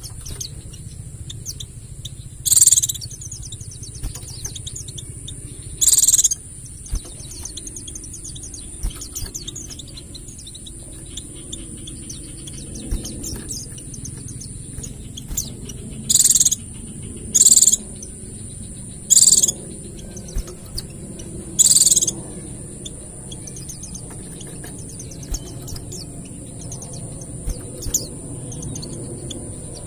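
White-eyes (pleci) chattering in a fast, continuous high twitter, broken by six loud, short song bursts of about half a second each.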